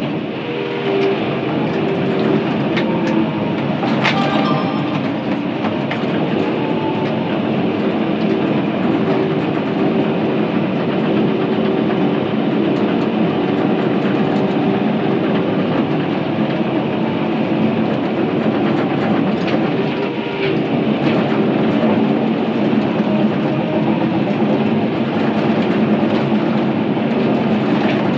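Crawler bulldozer running steadily under load, its diesel engine working and its steel tracks clanking as it pushes brush, with a few sharp metal knocks about four seconds in.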